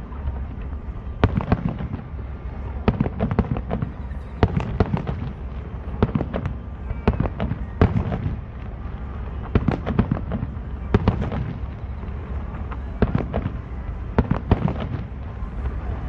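Aerial firework shells bursting: many sharp bangs and cracks in irregular succession over a steady low rumble.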